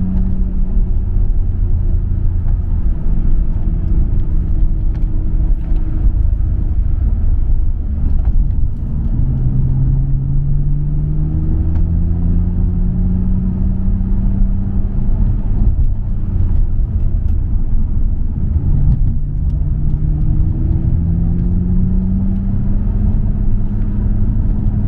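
Nissan Skyline R34 GT-R's twin-turbo RB26 straight-six through a MINES exhaust, pulling along a mountain road over a steady low rumble. Its note drops and then climbs slowly twice, at about a third of the way in and again near the end, as the car accelerates.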